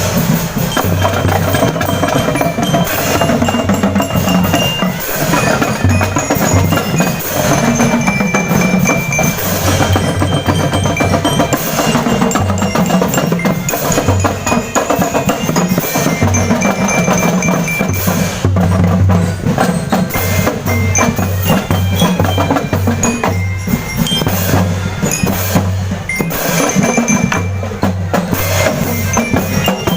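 Marching drum band playing: rhythmic runs of bass drum hits under snare and percussion, with a glockenspiel-type bell lyre playing short ringing notes of the melody.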